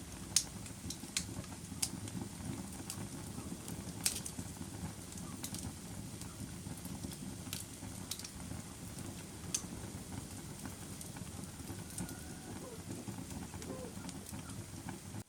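Fire burning in a fireplace: a steady low rumble with sharp crackles and pops scattered through it, the loudest near the start and about four seconds in.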